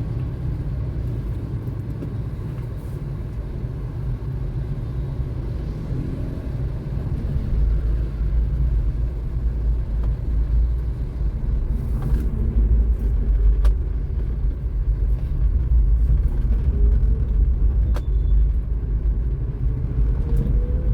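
Car driving along a road: a steady low rumble of engine and road noise that grows louder about seven seconds in, with a faint rising engine tone as it picks up speed near the end and a few small clicks.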